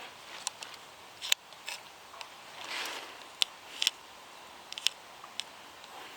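Malayan tapir's footsteps: scattered sharp clicks and taps on a hard floor, with one soft breathy puff about three seconds in.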